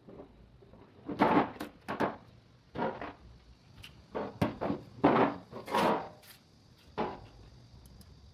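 A series of irregular knocks and clunks, about eight in all, several closely spaced.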